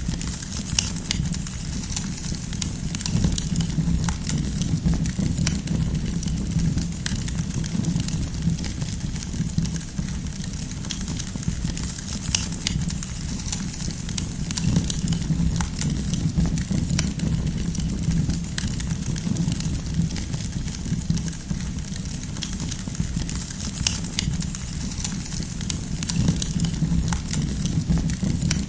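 Campfire burning, the firewood crackling and popping in many sharp, irregular clicks over a steady low rumble of the flames.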